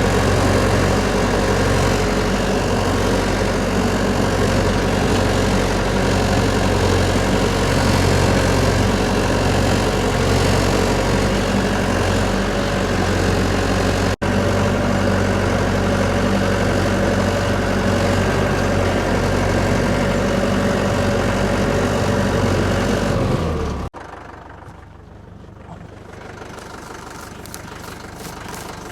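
A tractor engine running steadily, low and even. Near the end the engine sound cuts off abruptly and gives way to something much quieter.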